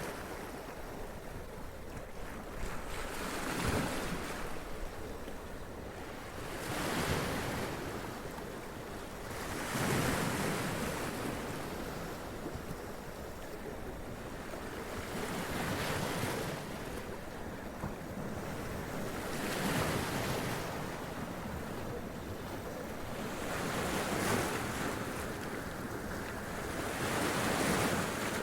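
Sea waves running up onto rocks and splashing, each wave a swelling rush of surf that washes back, arriving every three to six seconds.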